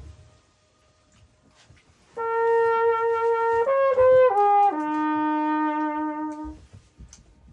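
Trumpet played across a lake toward a rock wall. A faint echo of the previous phrase dies away, then comes a held note, a quick run of falling notes, and a long low note, with the faint echo coming back off the cliffs afterward.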